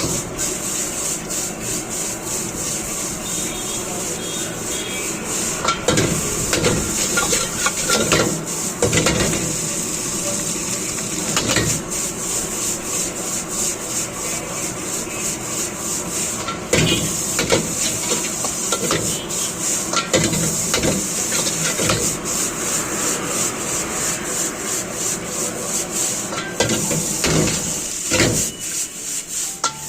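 Metal spatula scraping and knocking against a wok as chicken fried rice is stir-fried, with many short clangs over a steady high hiss of frying.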